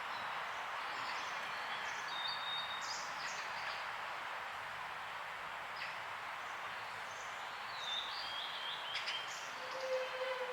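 Outdoor ambience: a steady rushing background noise with scattered short bird chirps, a descending run of chirps near the end, and a couple of sharp taps.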